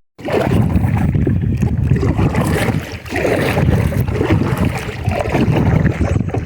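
Kayak being paddled: paddle strokes in the water, with wind buffeting the microphone.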